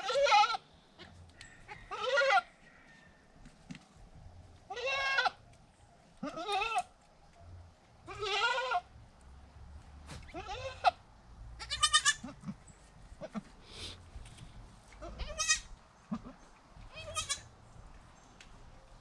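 Goats bleating: about ten high-pitched, quavering bleats, each under a second long, repeated every one to two seconds.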